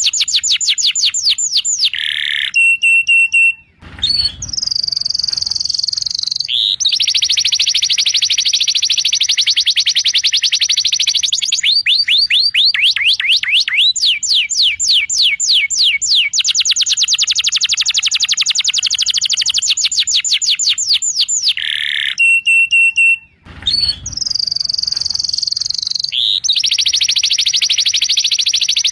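Domestic canary singing: long rolls of rapid, evenly repeated notes, broken by short held whistles and brief pauses. The same sequence of phrases comes round again about twenty seconds later, as in a looped training recording of canary song.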